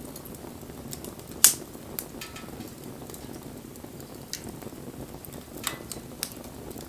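Wood fire burning: a steady low rush of flames with sharp crackles and pops from the burning wood, the loudest about a second and a half in.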